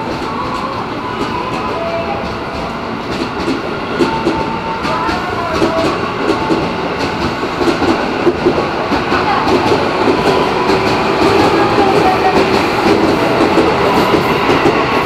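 KRL Commuter Line electric train pulling out and gathering speed past the platform: a steady rolling rumble with repeated wheel clacks and a shifting whine. It grows louder toward the end.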